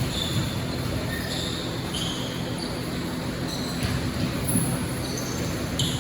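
Basketball game in a gym: sneakers squeaking on the court several times over the hum of the hall.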